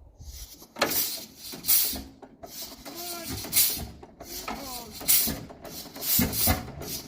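1922 Rumely OilPull 16-30 H two-cylinder engine running slowly, with loud, uneven exhaust puffs about once a second over a low rumble. The crew says it isn't firing hard enough on one side.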